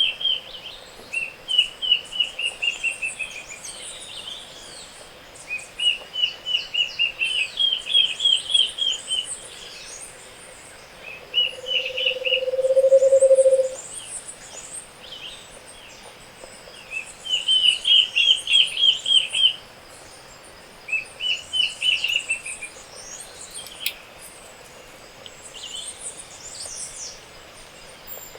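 Tropical forest dawn chorus. A high, fast trill repeats in phrases of a second or two every few seconds, with thin high chirps above it. Near the middle comes one low, hollow trill of about two seconds, rising slightly and swelling, the song of a Scaled Antpitta.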